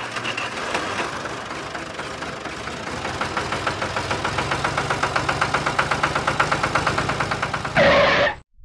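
Miniature DIY tractor running with a rapid, even engine chug that grows louder. A brief louder burst comes near the end, then the sound cuts off suddenly.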